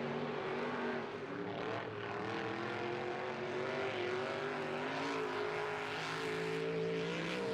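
Off-road race truck's engine revving hard, its pitch rising and falling repeatedly with the throttle as the truck drives the course.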